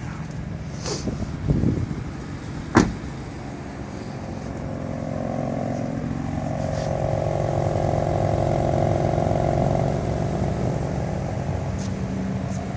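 A dull knock and then a sharp click, followed by a car engine running steadily for several seconds, its hum swelling and then easing off.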